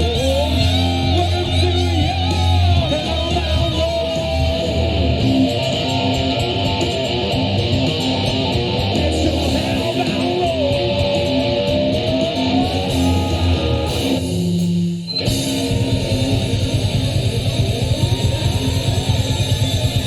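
Live rock band playing, with distorted electric guitar holding long, bending lead notes over bass and drums. About three-quarters of the way through the band cuts out for about a second, then comes back in with a faster, driving beat.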